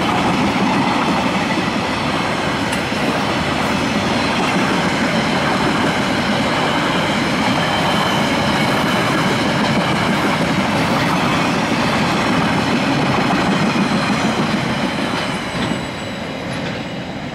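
Empty container flat wagons of a freight train rolling past close by: a steady loud rumble of wheels on rail with a thin high ringing. It fades about three seconds before the end as the last wagon goes by.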